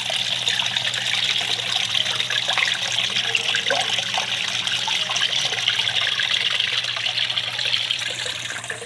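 Small garden-pond waterfall splashing and trickling steadily into the pond water, with a faint low hum underneath; it fades out near the end.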